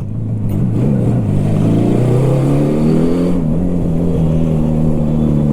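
Motorcycle engine running under way, its pitch rising as it accelerates about a second and a half in, then holding steady.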